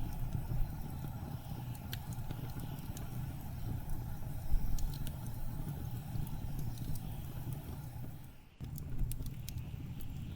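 Blizzard wind blowing as a steady low rumble, with a wood fire crackling in sharp scattered pops over it. The sound briefly drops away about eight and a half seconds in.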